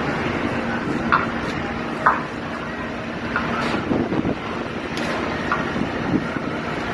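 Strong dust-storm wind blowing, a steady rushing noise, with a few sharp knocks and clatters of loose objects at about one, two, four and five seconds in.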